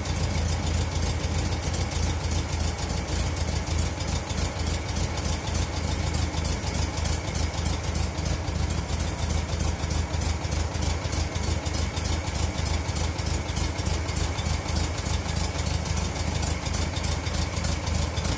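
A VW single-cab pickup's air-cooled flat-four engine idling steadily. It is running poorly and super rich, which the owner puts down to a carburetor not jetted for this engine.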